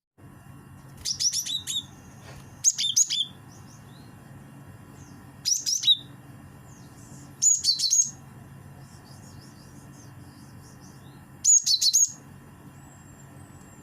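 Cinereous tit (gelatik batu) calling: five short bursts of quick, high chirps a few seconds apart, over a steady low hum.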